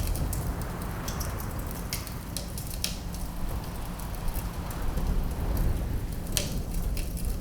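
Wood fire crackling, with scattered sharp pops over a steady low rumble of wind; the loudest pop comes about six seconds in.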